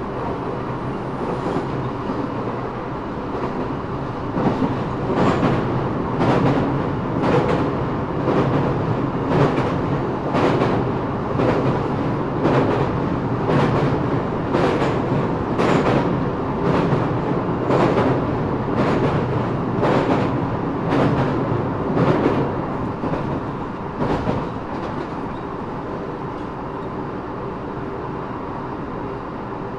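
Eidan 6000 series subway car running at speed, heard from the car floor: wheels clicking over rail joints about once a second over a steady running rumble. About 24 seconds in the joint clicks stop and only the even running noise remains.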